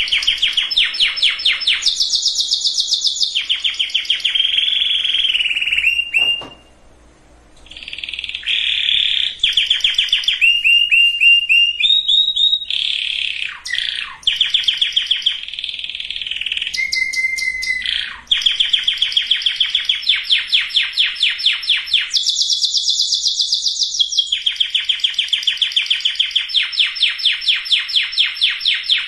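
Domestic canary singing: long rolling trills of rapidly repeated notes, switching from one tour to the next at a different pitch, with a brief pause about six seconds in.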